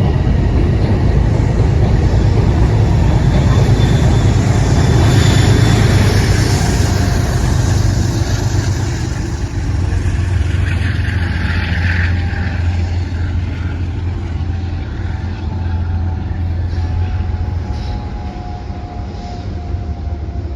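Metro-North commuter train running through the station: a heavy rumble that builds to its loudest about five seconds in, then eases off, with a faint steady whine in the second half.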